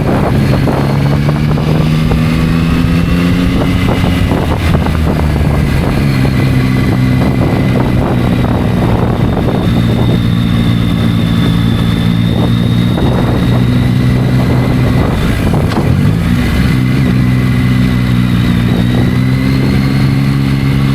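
Yamaha motorcycle engine running on the move, its pitch climbing and dropping with throttle and gear changes, dipping a few seconds in and again about three quarters of the way through.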